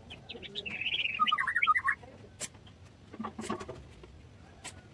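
A small bird singing a fast run of chirps for about two seconds, the notes dropping lower partway through, then a few sharp light clicks.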